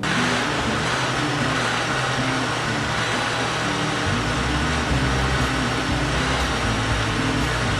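Countertop blender motor running steadily, blending chopped plantain, oats and almonds with milk and water. It switches on suddenly at the start, and its low end deepens a little about four seconds in.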